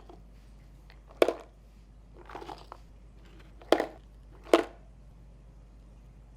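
Three sharp knocks, about a second or so apart, with a crinkling rustle between the first two, as a cat paws and knocks at its snack packaging to get the treats out.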